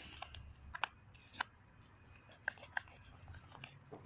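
Small twig campfire crackling, with irregular sharp snaps that come thickest in the first second and a half and then thin out to a few.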